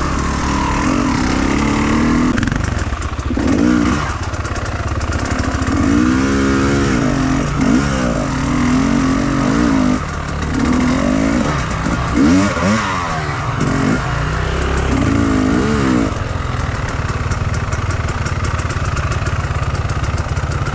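Enduro motorcycle engine running, its revs rising and falling in a series of throttle bursts, then holding steadier near the end.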